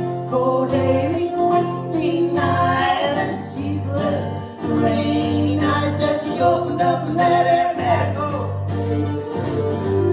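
Traditional folk tune played on fiddle over a guitar and bass backing, in an instrumental stretch between sung verses.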